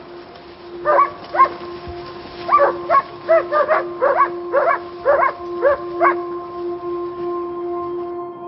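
A dog barking about a dozen times in quick irregular runs, stopping about six seconds in, over a steady held music drone that continues.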